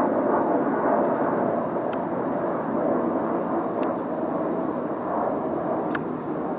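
Jet aircraft engine roar overhead, a steady rumble that slowly fades. Three faint clicks come about two seconds apart.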